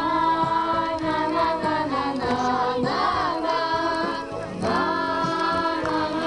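A song: voices singing together over an instrumental backing.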